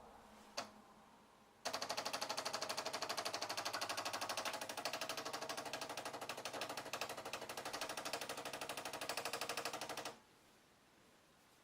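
Bosch Tassimo Vivy pod coffee machine brewing: its pump runs in a rapid, even pulsing for about eight seconds, pushing hot water through the pod, then stops abruptly. A single click comes just before the pump starts.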